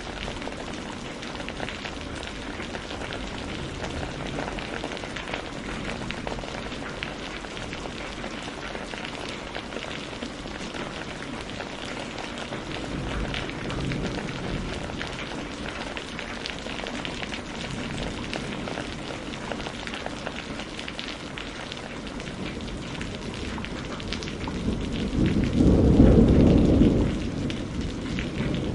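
Steady rain falling, with many small pops and crackles of a burning wood fire. About 25 seconds in, a low rumble of thunder swells for a couple of seconds and is the loudest sound.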